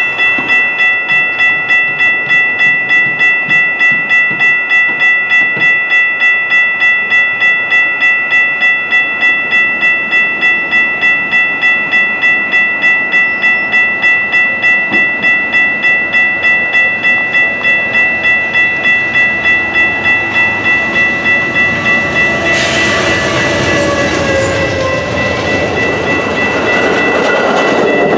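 A railroad crossing bell rings on and on at about two to three strikes a second. About two-thirds of the way in, an Amtrak Pacific Surfliner train led by a P42DC locomotive arrives and its bilevel coaches rush past, wheels clacking on the rails, with the bell still ringing.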